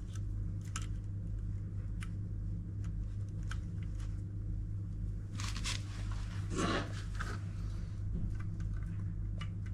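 Light scattered clicks and two short scraping rustles as washing-machine parts are handled, over a steady low hum.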